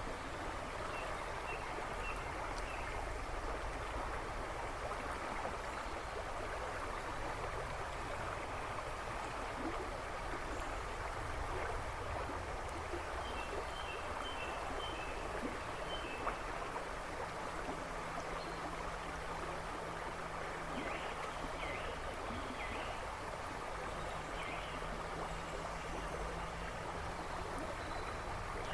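River babbling and rushing steadily, with a few short bird chirps in the background, in small groups at the start, the middle and towards the end.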